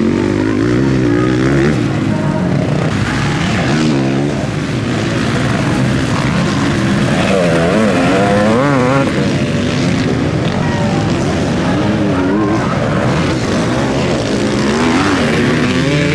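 Several off-road motocross motorcycles racing, their engines revving up and down in overlapping waves of rising and falling pitch.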